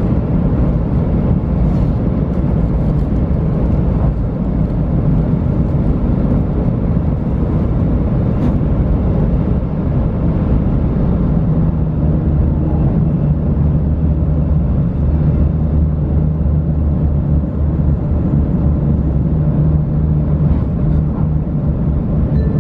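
JR West 500 series Shinkansen heard from inside the passenger car while under way: a steady low rumble of the wheels and running gear, with a few steady low hums.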